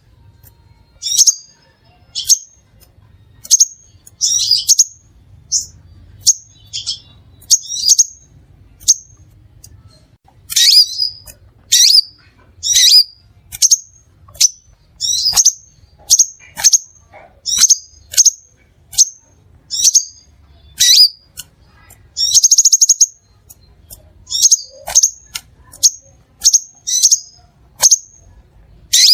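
Crimson sunbird calling: loud, sharp, high chirps about once a second, now and then two in quick succession, with one longer buzzy trill about two-thirds of the way through.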